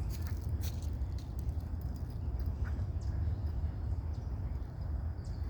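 Outdoor ambience: a steady low rumble, most likely wind on the microphone, with scattered short high chirps and a faint steady high-pitched insect-like buzz.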